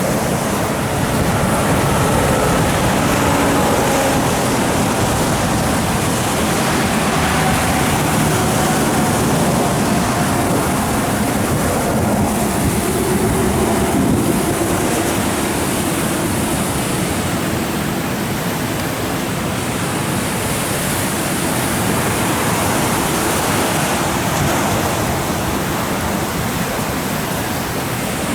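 Floodwater rushing in a loud, steady roar.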